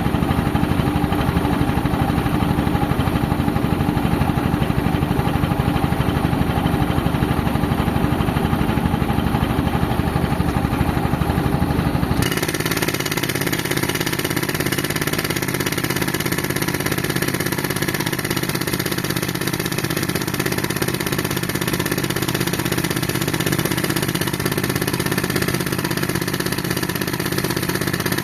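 Pneumatic breaker powered by a tractor-driven air compressor hammering concrete in a rapid, continuous stream of blows. About twelve seconds in, the hammering stops abruptly and a steadier mechanical running noise with more hiss continues.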